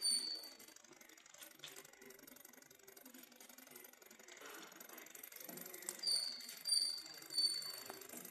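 Model Stirling engine running with a high-pitched squeak: once right at the start, then three squeaks in even succession about six seconds in, over a low background murmur.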